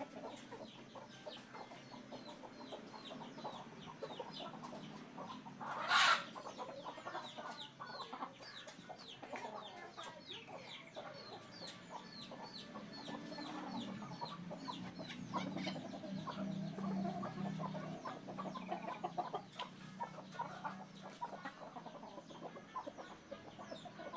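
Birds calling, with clucking like domestic fowl, a steady scatter of small high chirps, and one short, loud squawk about six seconds in.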